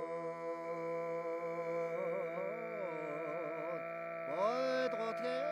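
Mongolian khoomei throat singing: one voice holds a steady low drone while a whistling overtone melody moves above it, wavering for a couple of seconds and then sliding upward near the end.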